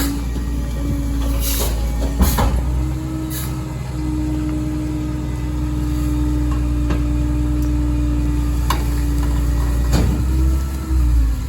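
Kenworth garbage truck with a Heil rear-loader body running its packer on bulk trash: a steady engine and hydraulic drone, with a few sharp cracks and knocks of debris being crushed. The drone steps up slightly about three seconds in and falls away near the end as the cycle finishes.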